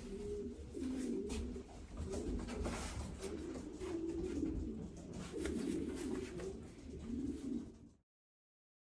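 Racing pigeons cooing, a run of low, repeated coos with faint rustling, cutting off suddenly near the end.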